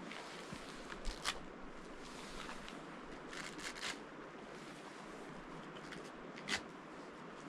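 Steady rushing of river water, with a few short clicks and rustles of gear being handled; the loudest is about six and a half seconds in.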